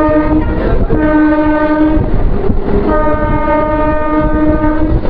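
Train horn sounding three times: a short toot, then a blast of about a second, then a longer blast of about two seconds. A loud rumble of a train runs underneath.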